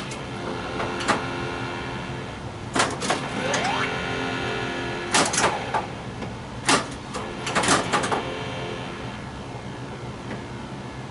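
Flash Gordon pinball machine in play: sharp clacks from flippers, solenoids and the ball striking targets, in clusters every second or two. Under them runs the game's steady electronic sound, with short falling tones after some of the hits.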